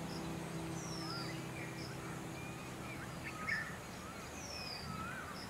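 Birds calling outdoors: a high, falling whistle repeated about every two seconds, with short chirps between, over a steady outdoor hiss. The last held notes of soft background music fade out in the first three seconds.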